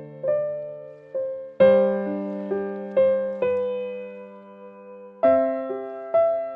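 Slow, soft piano music. Single notes and chords are struck about every half second to a second and each is left to ring and fade, with fuller chords about one and a half and five seconds in.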